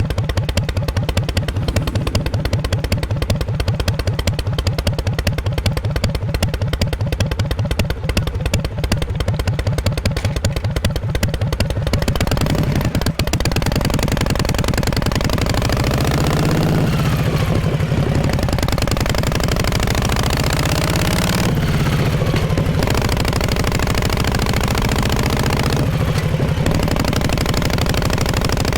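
1948 Harley-Davidson Panhead V-twin exhaust. For the first twelve seconds it runs at low revs with separate, even beats; then it turns denser and louder, with the revs climbing and dropping several times and brief breaks between pulls.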